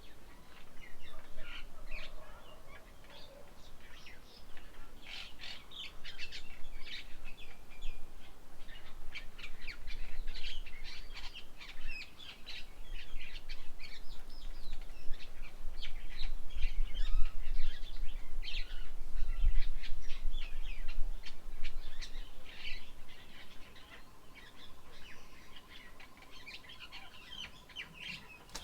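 Many small birds chirping and twittering in quick, overlapping short calls. A low rumble rises and falls underneath, loudest about two-thirds of the way through.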